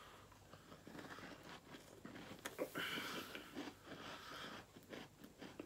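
Faint chewing and crunching of a hard cookie, with small irregular clicks.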